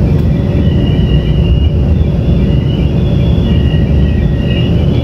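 Taiwan Railways Tze-Chiang express train running at speed, heard from inside the passenger car: a loud, steady rumble of wheels on the track, with faint high wavering tones that come and go.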